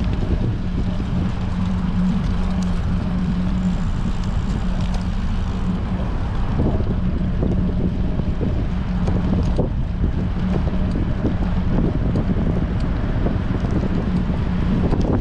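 Strong wind buffeting the microphone of a moving action camera on a bicycle, steady throughout, with a constant low hum underneath.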